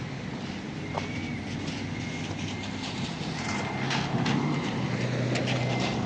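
A motor vehicle's engine running close by, a steady low hum that grows a little louder past the halfway point, with scattered sharp clicks over street noise.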